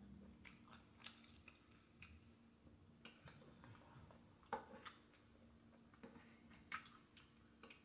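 Faint, scattered clicks and ticks of a person eating: quiet chewing and mouth sounds close to the microphone, over a low steady hum.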